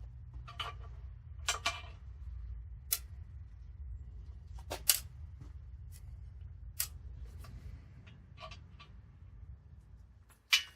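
Scattered sharp clicks and clinks of metal engine parts and hand tools being handled, about a dozen in all, the loudest about halfway through and just before the end, over a low steady rumble.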